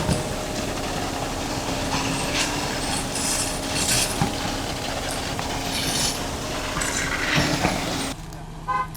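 Concrete pour machinery running, a steady engine hum under a dense noise with many short clinks and squeaks. About eight seconds in it cuts off abruptly to a much quieter, lower steady hum.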